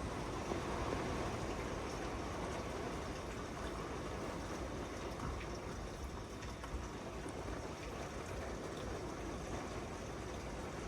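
Steady rush of thunderstorm rain and wind, an even noise with no distinct events.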